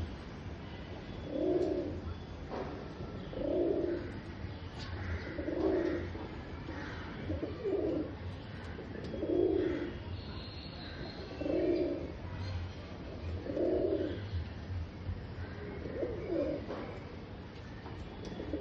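Domestic pigeon giving its courtship coo, a low repeated phrase about every two seconds.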